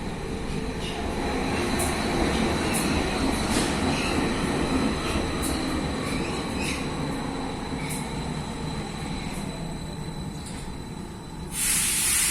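Athens Metro Line 1 electric train running on the rails: a steady rumble with a thin, steady wheel squeal and clicks about once a second. Near the end comes a sudden loud hiss of air lasting about a second.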